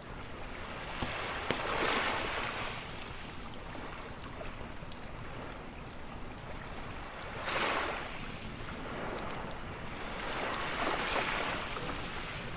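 Ocean waves washing onto a beach, swelling and falling back three times, with a few sharp pops from a crackling wood campfire.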